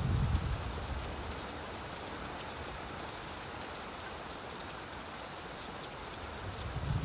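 Steady rain falling, an even hiss. A low rumble of thunder dies away in the first moment and starts building again near the end.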